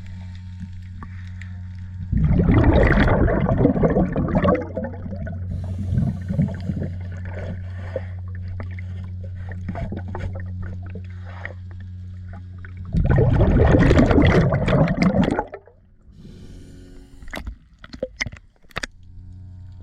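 Boat engine running with a steady low hum, twice drowned by loud rushing noise lasting two to three seconds each. The hum drops out near the end, leaving a few sharp clicks.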